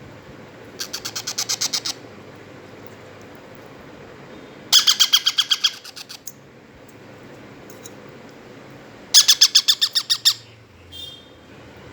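Baby Indian ringneck parrot chicks giving rapid, pulsed begging calls in three bursts, each about a second of quick repeated notes, typical of chicks asking to be fed.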